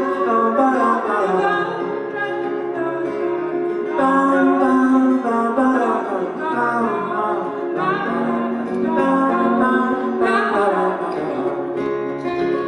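Live acoustic folk band music: strummed and plucked guitar with a sung melody over it.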